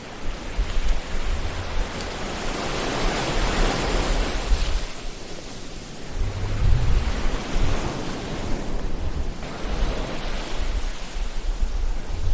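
Ocean waves surging in and washing back, about three slow swells of surf noise with a low rumble beneath.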